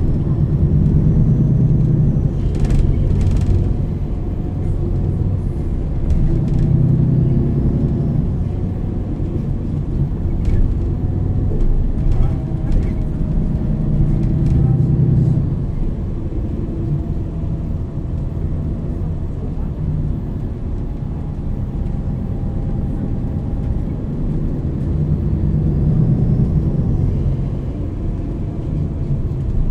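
MAN NL 323 city bus heard from inside while driving: the diesel engine swells under acceleration about four times and eases off between. A faint whine from the ZF EcoLife automatic gearbox rises and falls as it changes gear.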